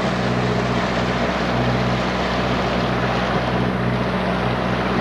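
Boat engine running steadily under way, a constant low hum with a rush of wind and water noise over it.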